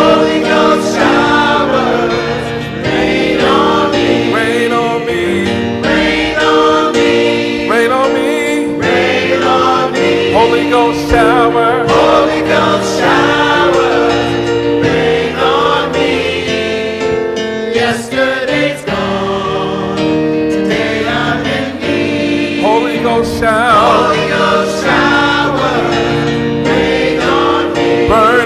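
Gospel music: a choir singing over held instrumental chords.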